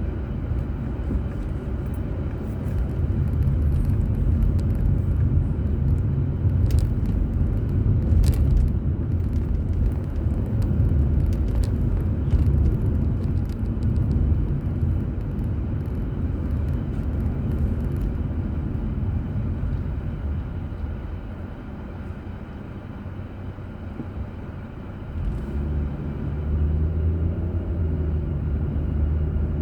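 Car driving on a road, picked up by a dashboard camera in the car: a steady low rumble of engine and tyres, with a few sharp ticks about a quarter of the way in. The rumble eases for a few seconds and then comes back with a steady engine hum near the end.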